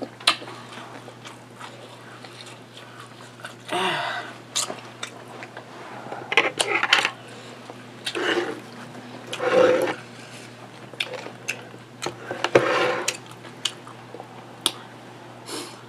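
Close-up eating sounds: wet chewing and mouth smacks, coming in short bursts separated by pauses, with a few small clicks.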